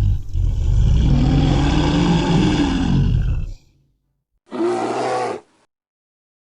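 Tiger roaring: one long roar that rises and then falls in pitch, then after a pause a shorter roar of about a second.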